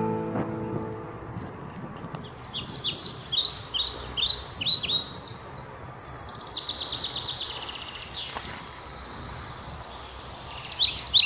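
Songbird chirping in runs of quick, high, downward-sweeping notes, with a fast trill about six and a half seconds in and another burst of chirps near the end. At the start, the last strummed acoustic guitar chord dies away.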